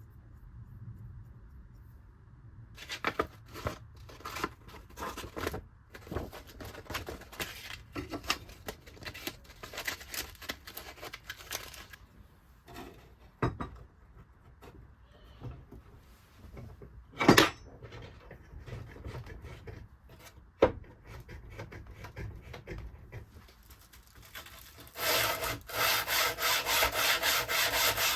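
Hand abrasive work on a workpiece: irregular rubbing and scraping strokes with pauses, and two sharp knocks in the middle. About three seconds before the end comes a fast, even stroking, about four strokes a second.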